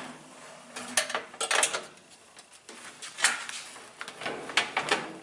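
Metal parts of a washing machine clattering and scraping in irregular bursts, about five in a few seconds, as a stuck part is worked loose by hand.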